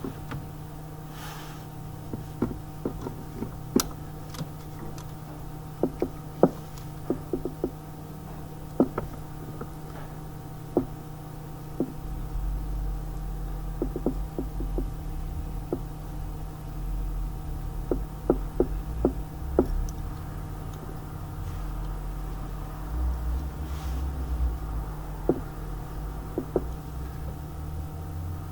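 Hand tools and parts clicking and knocking irregularly during repair work on the car, over a steady hum. A low rumble joins about twelve seconds in.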